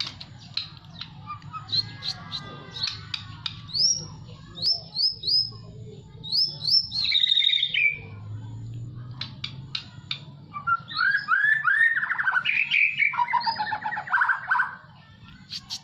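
A jabes songbird singing loudly in a string of sharp chirps and short rising whistled notes, breaking into faster warbled phrases in the second half, over a low wind rumble.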